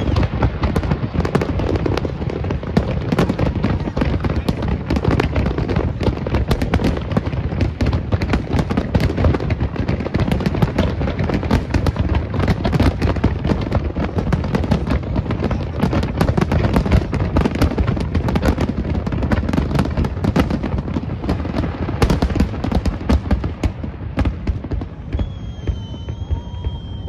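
Fireworks display: a dense barrage of aerial shell booms and crackling bursts, running without a break and easing off near the end.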